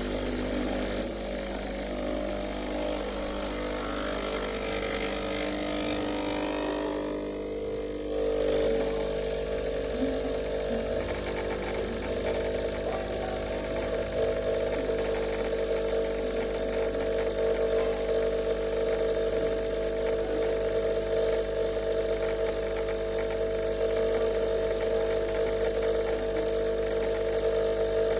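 Sage Barista Express espresso machine running with a steady mechanical hum that starts abruptly and shifts to a louder, steadier tone about eight seconds in.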